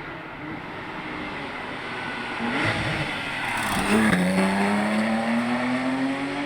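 Porsche 911 GT3's flat-six engine accelerating hard, its pitch climbing steadily, with a gear change about four seconds in where the pitch drops and then climbs again.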